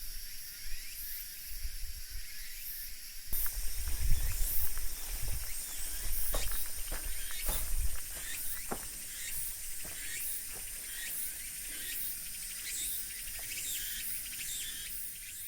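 Insects chirping steadily in a high, pulsing drone. A low rumble and a series of sharp clicks and knocks run through the middle stretch.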